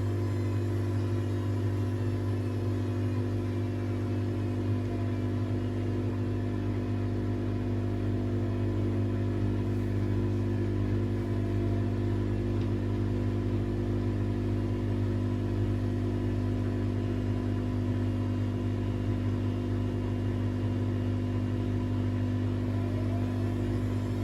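AEG Lavamat washing machine spinning its drum at a steady high speed: a loud, even motor hum with a low drone and a whine above it.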